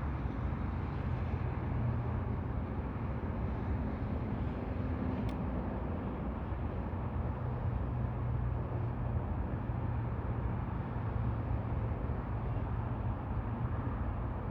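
A vehicle engine idling steadily: a low, even hum with a haze of outdoor background noise.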